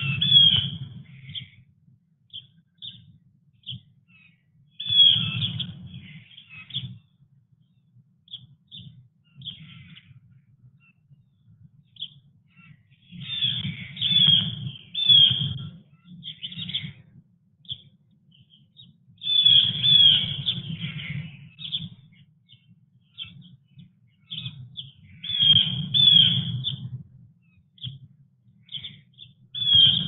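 Wild songbirds chirping around a backyard feeder: short chirps throughout, with louder bursts of calls about every five or six seconds, each carrying a low rumble underneath.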